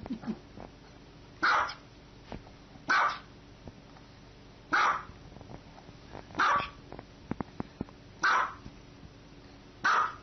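Small white long-haired dog barking: six short, sharp single barks, spaced about every one and a half to two seconds.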